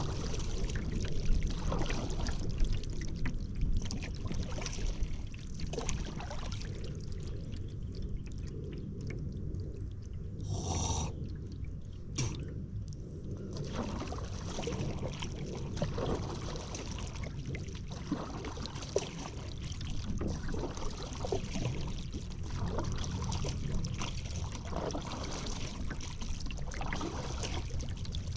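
Paddle strokes in river water: irregular splashing and dripping off the paddle blades, with a brief hiss about eleven seconds in.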